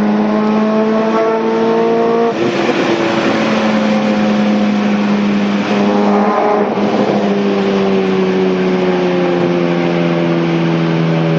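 Honda K20 2.0-litre inline-four engine running hard at a steady, held pitch, with brief breaks about 2 s and 6 s in, then the engine note slowly falling over the last few seconds.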